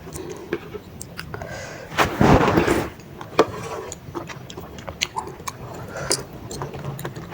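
Close-miked eating of baso aci, chewy tapioca balls in broth: wet mouth and chewing clicks throughout, with a loud slurp about two seconds in.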